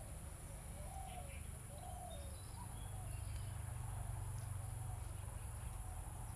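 Faint bird calls: a few soft rising-and-falling coos about a second apart, with short high chirps, over a low steady hum.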